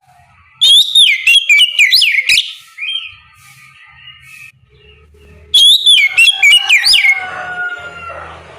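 Oriental magpie-robin (kacer) singing in the loud, open 'ngeplong' style: two loud bursts of rapid whistled notes sweeping up and down, the first about half a second in and the second about five and a half seconds in, with quieter twittering between.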